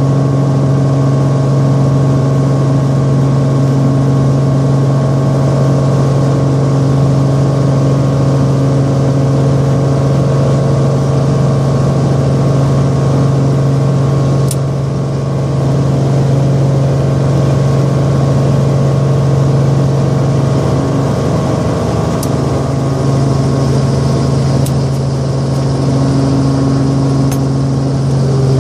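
Helicopter engine and rotor noise heard from inside the cabin: a loud, steady drone with a strong low hum and a slight dip about halfway through.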